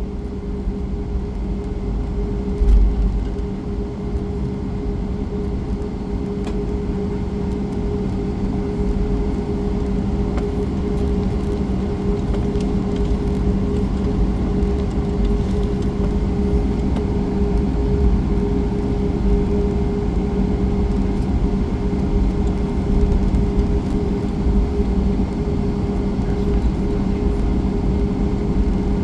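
Boeing 737-8 MAX cabin noise while taxiing after landing: the CFM LEAP-1B engines at idle with a steady two-tone hum over a low rumble from the rolling gear. A louder low bump comes about three seconds in.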